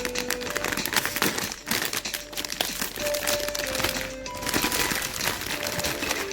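Plastic snack wrappers crinkling as packets are handled and opened, over background music with a simple melody of held notes.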